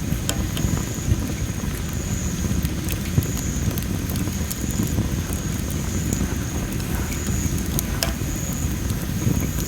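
A well-dried masaki (Japanese spindle tree) wood fire burning, with scattered sharp crackles and pops over a steady low rumble.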